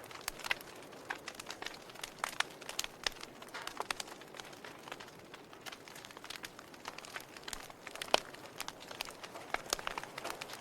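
Log fire crackling: irregular sharp pops and snaps from burning wood over a faint steady hiss, with one louder pop about eight seconds in.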